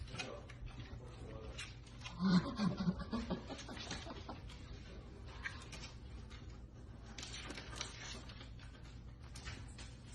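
A French bulldog puppy makes brief, low vocal sounds about two seconds in, amid small clicks and knocks.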